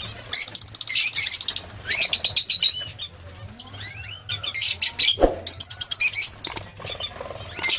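Lovebirds chattering in bursts of rapid, shrill chirps, three main bursts of a second or less each. A single knock about five seconds in.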